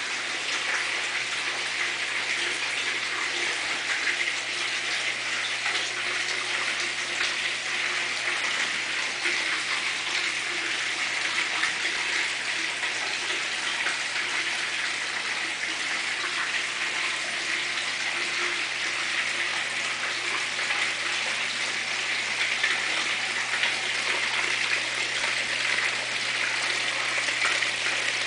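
Water falling and splashing steadily down a galvanized-steel waterfall sculpture, an even rushing splash with a low steady hum underneath.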